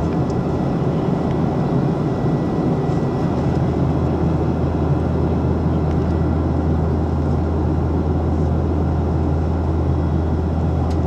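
Boeing 737 jet engines and airflow heard inside the passenger cabin: a steady, even roar with a strong low hum and a faint high whine, holding level without rising or falling.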